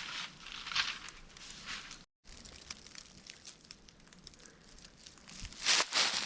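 Footsteps rustling through forest ground cover, a few crunchy steps. There is a brief dropout just after two seconds, quieter rustling after it, and the loudest steps near the end.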